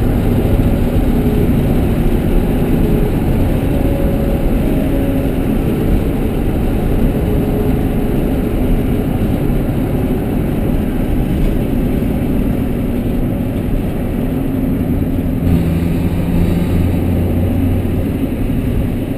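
Honda Prelude's four-cylinder engine running hard at speed, heard from inside the cabin with road noise. About fifteen seconds in, the engine note drops to a deeper pitch.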